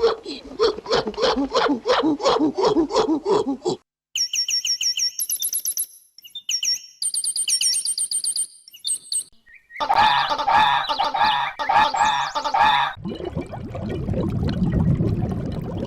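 A string of different animal calls cut one after another. First comes a fast run of rhythmic honking calls, about four a second. Then high bird chirps and whistles, then another quick repeated call, and near the end a low rumbling noise.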